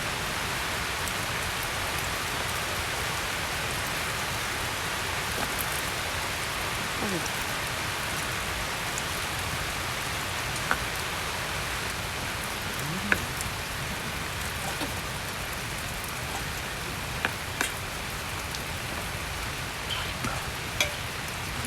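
Steady rain falling without a break, with a few short sharp clicks scattered through the second half, the loudest about thirteen seconds in.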